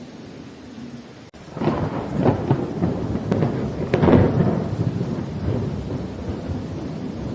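Thunderstorm: rain falling under a thunderclap that breaks about a second and a half in with sharp crackles, is loudest around four seconds, then rolls on as a low rumble.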